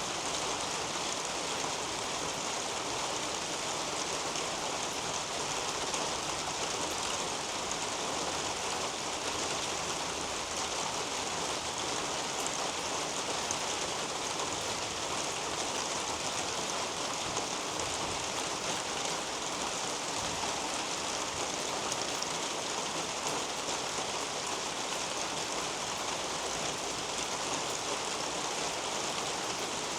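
Steady rain falling on garden foliage and a roof overhead: an even hiss made up of many fine drop ticks.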